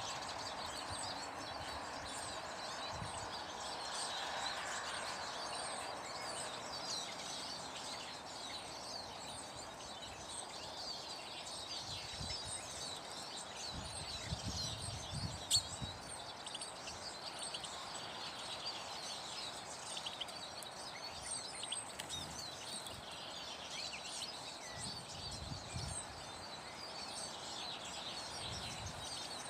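Many small birds chirping, with short high calls overlapping throughout over a steady background hiss. A single sharp click sounds about halfway through.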